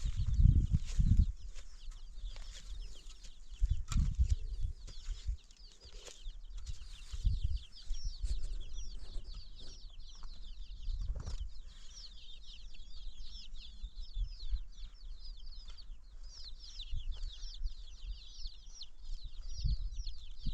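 Birds chirping in quick, continuous short notes, with scattered low thumps.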